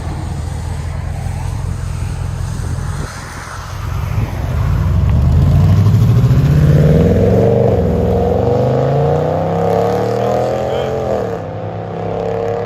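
5.7 L Hemi V8 of a Ram 1500 breathing through Dynomax Race Bullet mufflers in a true-dual exhaust with the factory resonators kept. It idles with a low rumble for about three seconds, then from about four seconds in it is run up hard, the exhaust pitch climbing. It climbs a second time further on.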